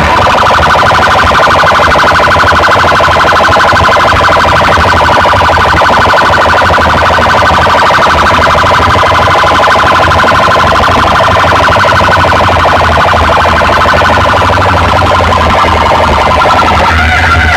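Loud electronic siren-like alarm tone, held at one pitch with a rapid fluttering pulse, played over a loudspeaker sound system with a constant heavy bass underneath; near the end it gives way to guitar music.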